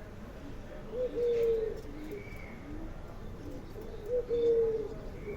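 A dove cooing in two phrases about three seconds apart, each with a long held note. Fainter bird chirps sound in the background.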